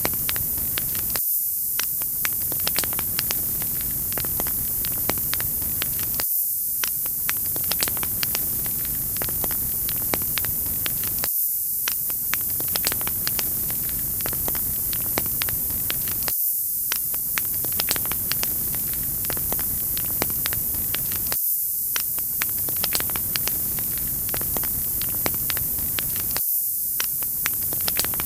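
Crackling wood fire: a steady hiss with frequent small sharp pops and crackles. The low rumble briefly drops out about every five seconds, as in a short looped recording.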